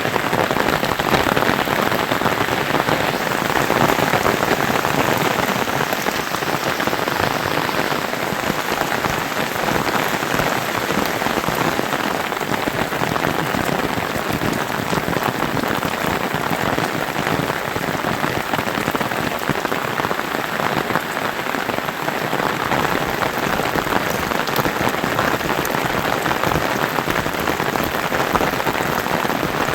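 Steady heavy rain falling and pattering on surfaces, an even dense hiss of drops that neither builds nor fades.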